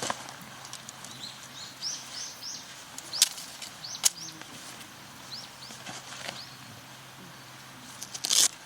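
A small bird calling outdoors, a string of short, high, downward-sliding chirps, with two sharp clicks in the middle and a brief rustle near the end over a faint steady hum.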